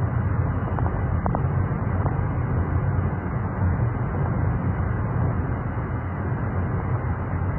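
Steady, loud outdoor noise, mostly a low rumble, with a few faint short tones in the first two seconds.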